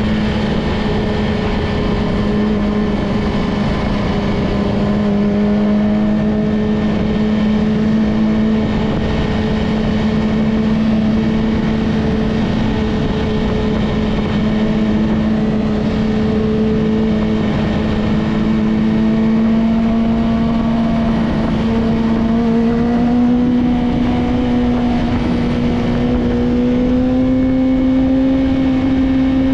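Yamaha R6's inline-four engine with a Two Brothers full-system exhaust, held at a steady high engine speed while riding. The pitch drifts only slightly and climbs gently near the end, over a steady rushing noise.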